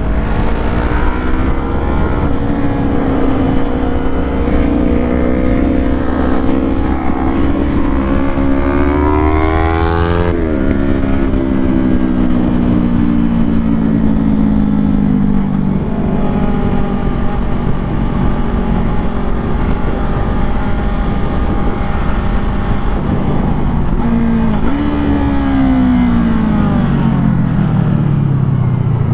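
Sportbike engine under way: its note climbs steadily for about ten seconds, drops sharply, then sinks and holds a steady pitch. Near the end it rises once more and winds down. A steady low rumble runs underneath.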